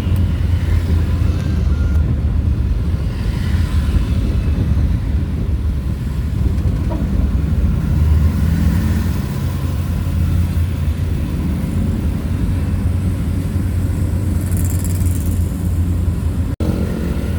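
Steady road and wind noise from a moving vehicle, dominated by a heavy low rumble, with a momentary break near the end.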